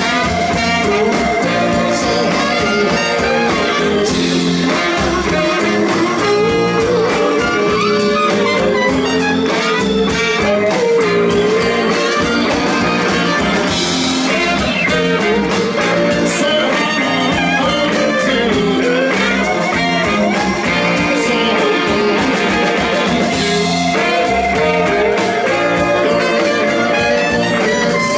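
Live blues band playing, with electric guitar carrying a bending melodic line over the band.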